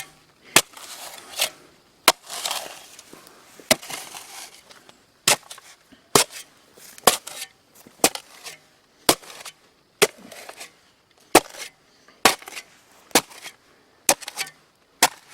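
Shovel digging into hard clayey soil: sharp strikes of the blade about once a second, with scraping and loose dirt between them.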